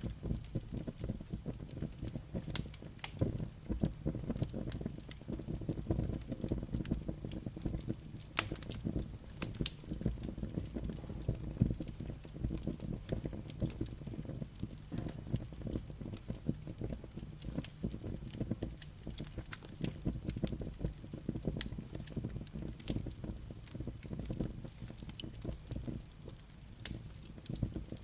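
Logs burning in a fireplace: a steady low rumble of flames with irregular sharp crackles and pops from the burning wood and embers.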